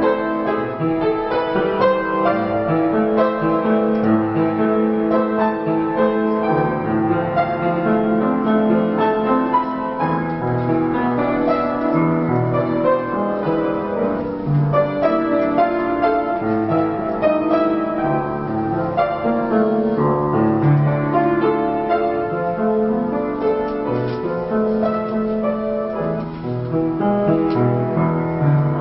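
Piano playing a flowing solo passage of sustained chords and melody.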